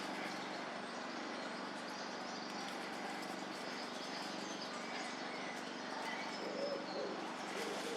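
A pigeon cooing low, starting about six seconds in, with brief high chirps from small birds, over a steady low hum.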